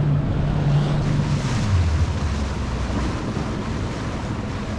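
A boat's motor running, its low hum dropping to a lower note about two seconds in as it slows, under wind buffeting the microphone and water washing around the hull.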